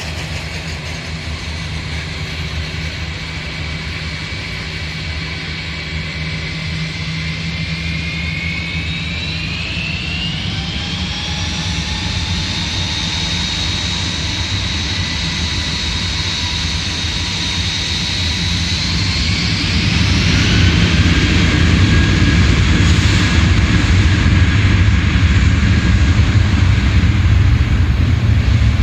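Jet airliner engines spooling up: a whine rises in pitch about a third of the way in and holds, then a louder low roar builds from about two-thirds in.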